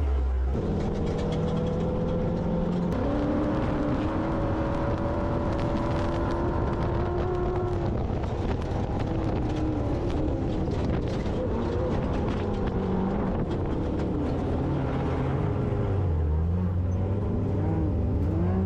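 Motor-vehicle engines running, their pitch rising and falling as they rev, over a constant rumble.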